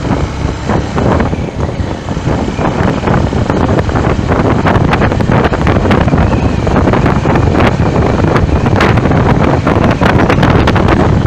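Loud wind buffeting the microphone in irregular gusts, over the low rumble of a moving vehicle in traffic.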